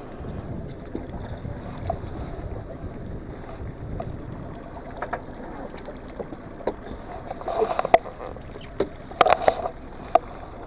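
Low, steady rumble of a small fishing boat on the water, with several sharp knocks and clatters in the second half.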